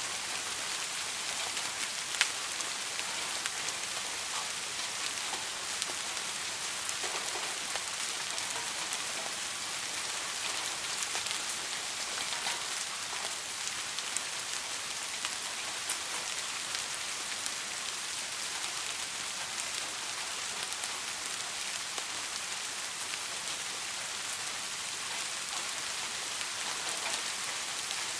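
Steady soft rain, a continuous hiss with individual drops ticking through it and one sharper drop about two seconds in. No thunder.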